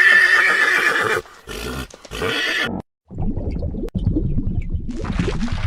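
Horse neighing: a loud, high call in the first second or so and a shorter one about two seconds in, then a stretch of low, uneven noise.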